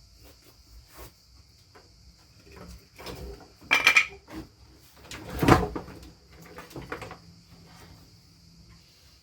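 Hand tools and metal car parts being handled during radiator removal: scattered light clicks and knocks, with two louder clattering rattles about four and five and a half seconds in.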